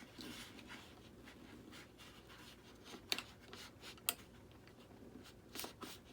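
Knife blade scraping and cutting into the foam of an RC model jet: faint, uneven scratchy strokes, with sharp clicks about three and four seconds in.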